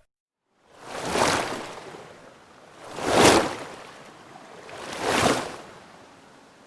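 Water surging in and washing back in repeated swells, one about every two seconds, like small waves breaking; it starts after a short silence.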